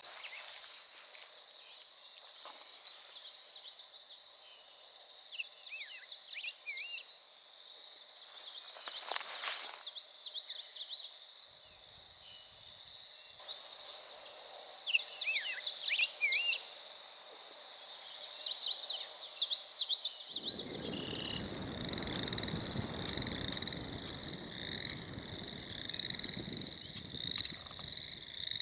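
A steady chorus of frogs trilling from the marsh water, with bird song breaking in four times. About two-thirds of the way through, a low rumbling noise joins and carries on.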